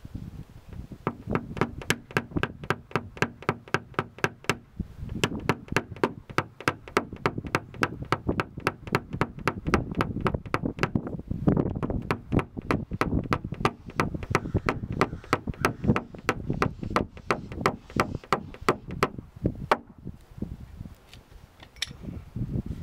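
Rapid light tapping on a car's sheet-metal body panel, about three to four sharp taps a second, as the dent is worked level. The taps pause briefly about five seconds in and stop near the end.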